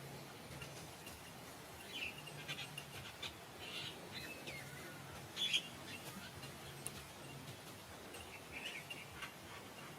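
Birds chirping in short, scattered calls, the loudest about five and a half seconds in, over a faint low hum that comes and goes.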